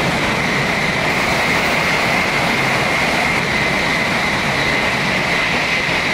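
Shinkansen high-speed train passing through a station at speed: a steady, loud rushing roar with a high whine running through it.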